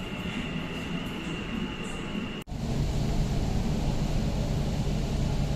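Metro train carriage in motion: a steady rumble and hiss of the running train, with a thin high whine at first. About two and a half seconds in, the sound cuts out for an instant, then comes back with a heavier low rumble.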